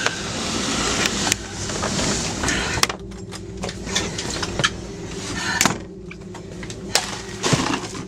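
Gusting wind rushing over the microphone during a tornado. It drops back about three seconds in, leaving a low steady hum broken by many sharp knocks and rattles.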